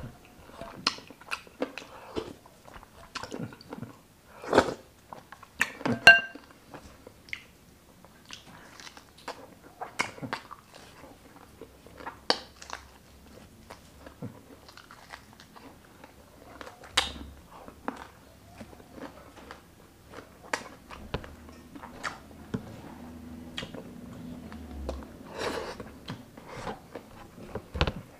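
A person chewing and biting grilled chicken inasal and rice close to the microphone, with many irregular sharp mouth clicks.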